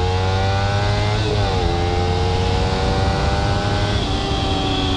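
Kawasaki Ninja 300's parallel-twin engine with a Yoshimura R77 exhaust, heard from the rider's seat while accelerating on pavement: the pitch climbs steadily, drops at an upshift about a second and a half in, climbs again, then eases slightly lower near the end.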